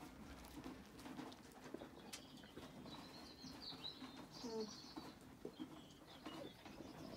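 Faint bird chirps, a short cluster between about three and four and a half seconds in, over a low background with soft scattered clicks.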